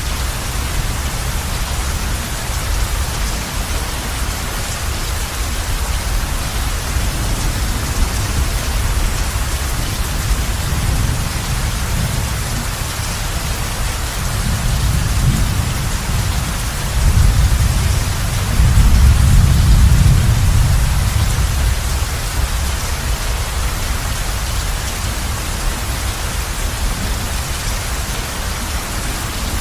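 Heavy rain falling steadily on a roof. Past the middle, a low rumble of thunder swells for a few seconds and fades.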